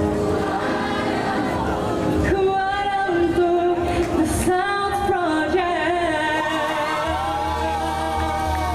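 Live pop music: sung melody with long held, wavering notes over a band with a steady bass line.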